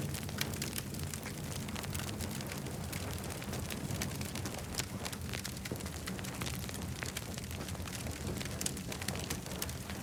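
Wood campfire burning, with a steady low rumble of flames and frequent sharp crackles and pops.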